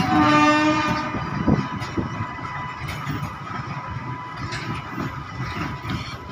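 A freight train rolls past at close range: two WAG-9 electric locomotives, then covered box wagons, with a continuous rumble and clatter of steel wheels on rail. A short pitched horn-like tone sounds in the first second.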